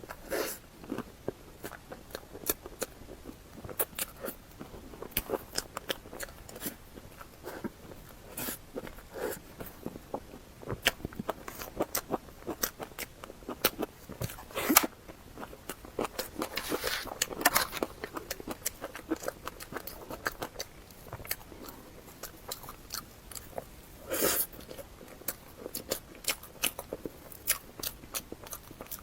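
Close-miked eating: a person biting and chewing, with many sharp, crisp crunches and mouth clicks at an uneven pace.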